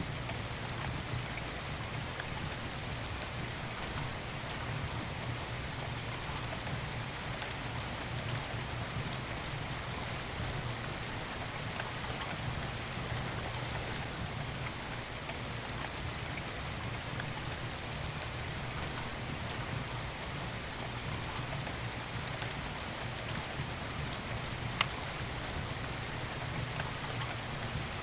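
Steady rain falling, with sparse crackles from a wood fire in a fireplace and one sharp pop near the end.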